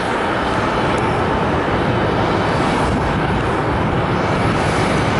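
Airbus A350-1000 arriving, its Rolls-Royce Trent XWB jet engines making a loud, steady rushing roar that builds slightly at the start.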